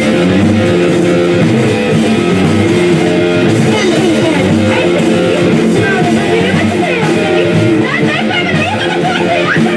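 A live rock band playing a song led by electric guitar. From about four seconds in, quick bending high notes come in over the steady chords.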